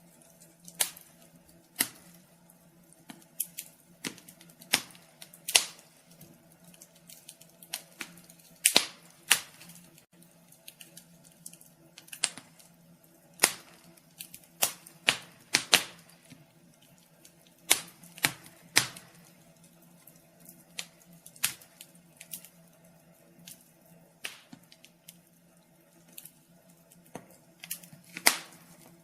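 Wood fire crackling in a fireplace: irregular sharp snaps and pops, some much louder than others, over a faint steady hum.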